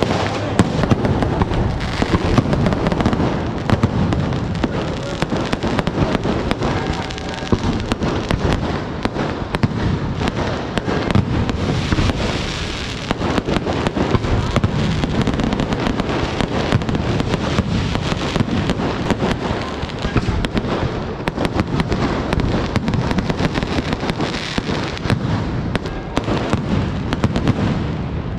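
Fireworks display going off in a rapid, unbroken barrage: many sharp bangs from bursting shells, one on top of another, with crackling between them.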